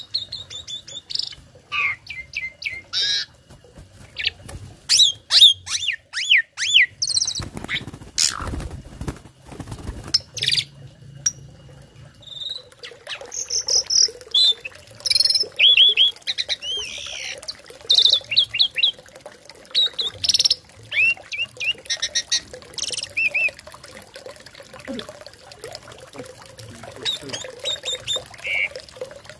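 A tame starling singing a busy, varied string of loud whistles, sliding chirps and harsh squawks, full of learned phrases. A few rough, noisy knocks or rustles come about a third of the way in.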